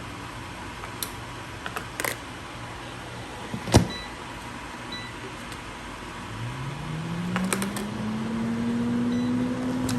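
A few light clicks and a sharp knock, then a small electric motor that spins up over a couple of seconds, hums steadily, and begins to wind down near the end.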